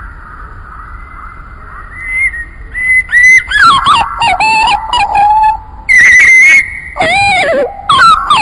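Bird song: a run of loud, short whistled phrases with sliding pitch, starting about two seconds in and separated by brief gaps, over faint thin steady tones.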